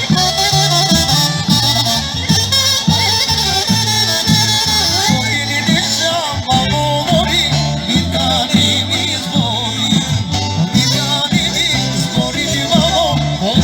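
Folk dance music played by a band, with a steady, even beat under an ornamented, wavering melody, and singing.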